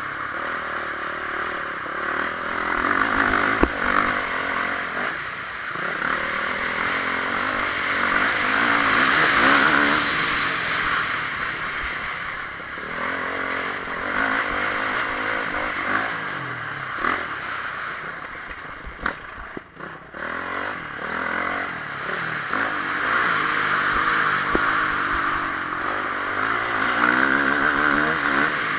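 Honda CRF450R single-cylinder four-stroke motocross engine under riding load, its pitch rising and falling repeatedly as the throttle is opened and closed, with a brief drop in level about two-thirds of the way through.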